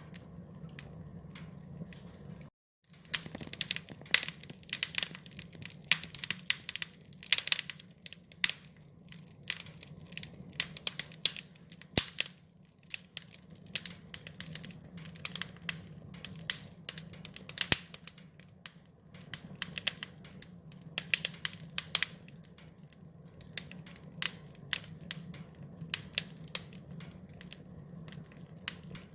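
Wood fire crackling: irregular pops and snaps, some sharp and loud, over a steady low hum. The sound cuts out completely for a moment about two and a half seconds in.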